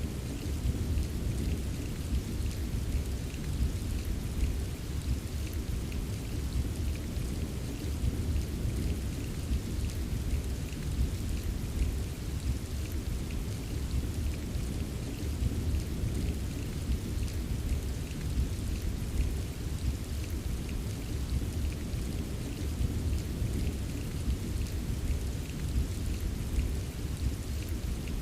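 Steady rain ambience: a dense patter of raindrops over a constant deep rumble, with no separate thunderclaps.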